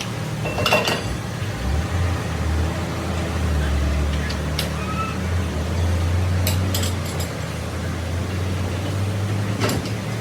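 A steady low mechanical drone, like a motor or engine running, with several sharp knocks about half a second in, near four and a half seconds, around seven seconds and near the end.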